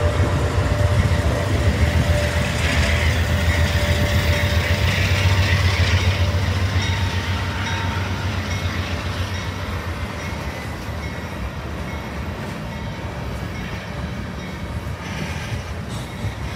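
Diesel freight locomotives passing close by, their engines rumbling loudly, then fading about six seconds in as covered hopper cars roll past with a steady, quieter rumble of wheels on the rails.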